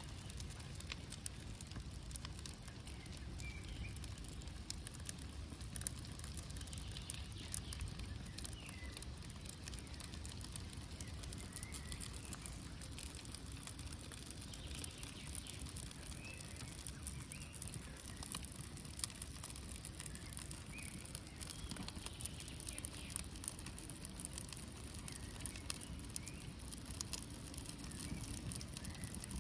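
Birch-bark campfire crackling, with many small scattered pops. Birds chirp faintly now and then.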